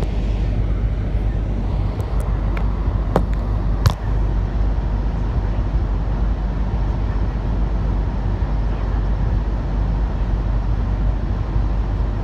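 Inside the cabin of a CRH6A electric multiple unit running on the line: a steady low rumble and hiss of wheels on rail. A few sharp clicks fall between two and four seconds in, the loudest a single knock about four seconds in.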